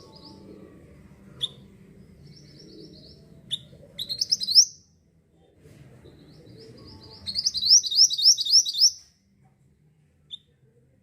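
Mantenan songbird singing short, high, rapid trilled phrases. A loud burst comes about four seconds in and a longer loud trill near the end, over faint low recording noise.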